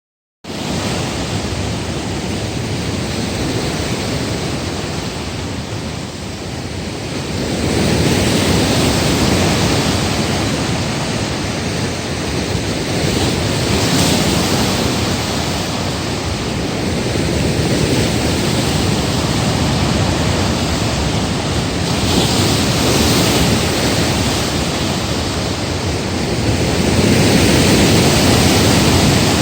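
Storm waves from a typhoon breaking against a breakwater: a continuous rush of surf that swells louder several times, loudest near the end, with wind noise on the microphone.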